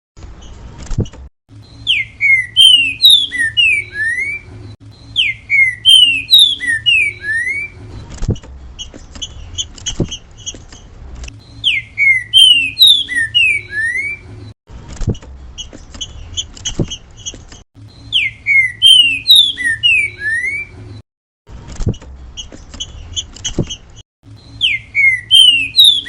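Green-winged saltator (trinca-ferro) singing its 'grego mole boi' song: loud phrases of clear, downward-slurred whistled notes, repeated several times, alternating with fainter, higher notes. A low hum runs underneath, and there are a few brief gaps and clicks where the recording is cut.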